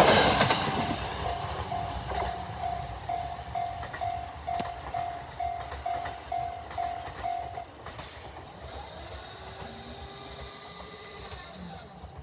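A train passes through a railway level crossing and fades away, its wheels clacking on the rails. The crossing's warning bell dings about twice a second, then stops about seven and a half seconds in, signalling that the crossing is clearing.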